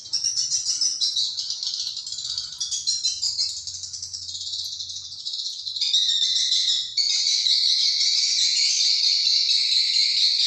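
Many birds chirping at once in a dense, unbroken chatter of high calls, louder and fuller from about six seconds in.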